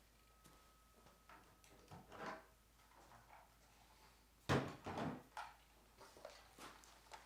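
Knocks and clatter of tools and gear being handled and set into a toolbox, with one loud knock about four and a half seconds in, followed by a few smaller ones.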